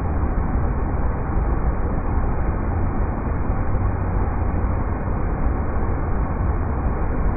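River rapids: a steady rush of water with a heavy low rumble and no individual splashes standing out.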